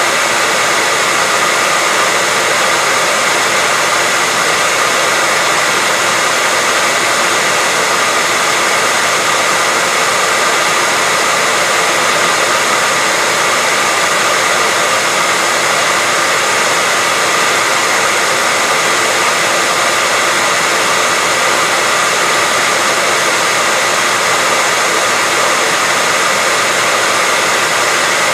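Hair dryer running steadily: an unchanging whooshing hiss with a faint steady whine in it, used as white noise to settle a baby to sleep.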